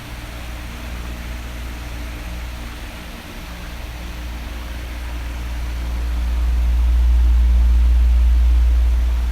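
Electric fan running steadily: a smooth rush of blown air over a faint motor hum. A low rumble of air swells in the second half, loudest near the end.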